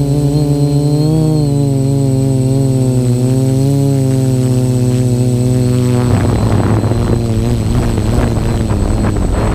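FPV quadcopter's electric motors and propellers running, a loud buzzing tone that wavers slightly in pitch. About six seconds in, the steady tone breaks into a rough, fluttering rush of air noise.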